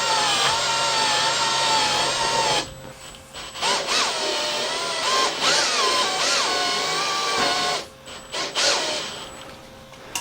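Electric drill run slowly in short stop-start bursts, its motor whine wavering in pitch as the trigger speed changes. It runs for about two and a half seconds, pauses, runs again for about four seconds, then gives one short burst near the end.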